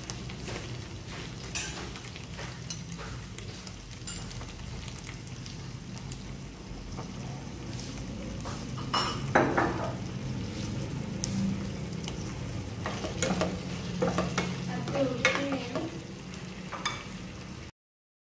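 Chicken and onion pieces sizzling in a nonstick frying pan while being stirred, with a utensil scraping and knocking against the pan. The stirring is loudest about halfway through and again near the end, and the sound cuts off abruptly just before the end.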